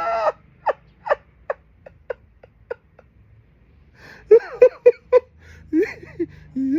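A person's voice making short, rhythmic non-speech sounds: quick pulses at first, then a run of pitched, sob- or laugh-like bursts from about four seconds in.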